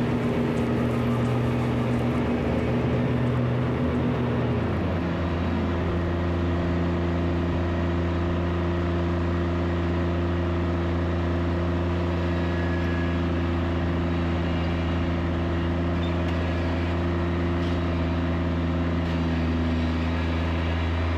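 Diesel zero-turn mower engine running steadily. Its pitch drops about four to five seconds in as the engine slows, then it holds at the lower speed.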